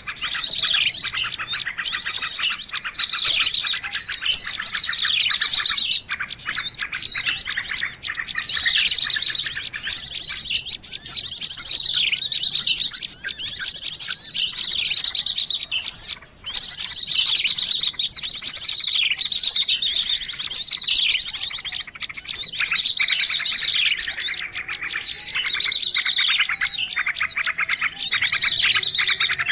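A bird-lure recording of small songbirds: dense, rapid chirping and trilling that keeps up without a break except for a brief pause about sixteen seconds in.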